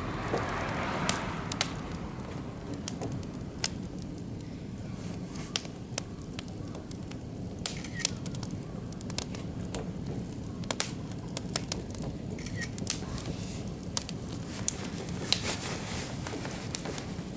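Oak and beech wood fire burning in a barbecue grill, crackling with frequent irregular sharp pops over a steady low rumble of the flames.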